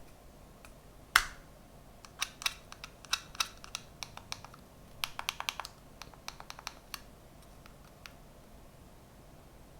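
Hands handling unboxed gadget parts: one sharp click about a second in, then several quick runs of light clicks and taps.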